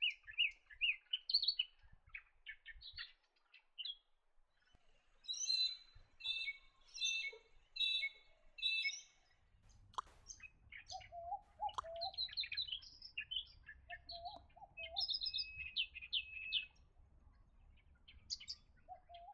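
Several wild birds calling and singing: quick high chirps and trills, a run of five repeated notes about a third of the way in, and lower whistled calls in the second half, over a faint low rumble that starts about halfway through.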